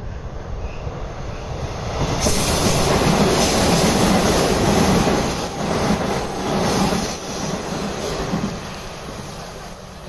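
A train running past on nearby rails: a rumbling rail noise that swells about two seconds in, stays loud for several seconds and fades away toward the end.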